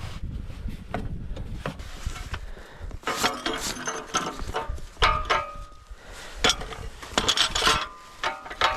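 Irregular knocks, clicks and clattering of hard objects, some with a brief metallic ring.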